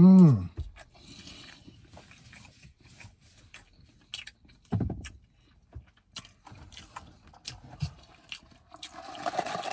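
Close-miked chewing and lip smacking of a person eating a mouthful of food, with many scattered wet mouth clicks. A short hummed "mmm" right at the start and another brief low hum about five seconds in.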